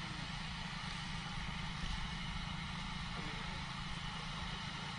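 A vehicle engine running steadily, a dense low rumble with a steady hiss above it.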